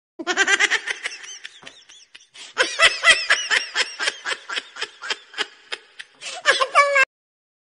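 High-pitched laughter, a rapid run of 'ha-ha' bursts about four a second, in two runs with the second louder, cutting off abruptly about seven seconds in.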